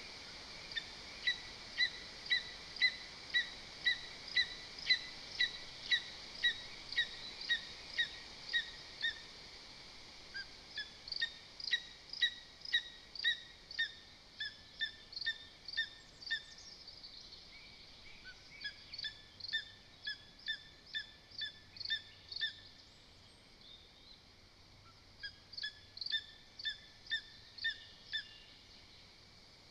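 Lesser spotted eagle calling a long series of evenly spaced, clear yelping notes, about two a second. The calls come in four runs with short pauses between them.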